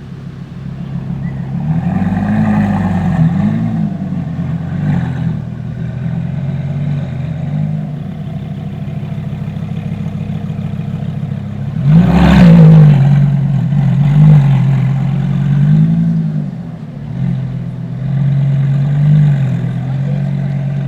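Straight-piped Lamborghini Gallardo LP570-4 Superleggera's V10 idling loudly, with about seven short throttle blips that rise and fall in pitch; the biggest comes about twelve seconds in.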